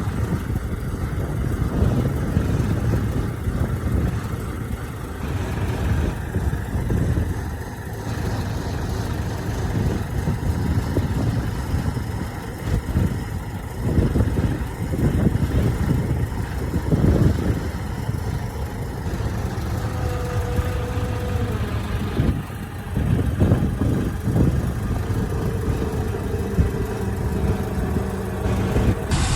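Heavy diesel earthmoving machinery, bulldozer and dump truck engines, running under load with surges in revs. The sound shifts abruptly several times.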